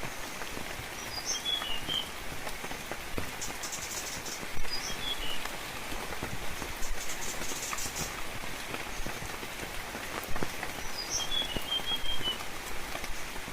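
Steady rainfall with drops pattering and dripping, and a songbird giving a short chirping phrase three times: a high note followed by a quick run of lower notes.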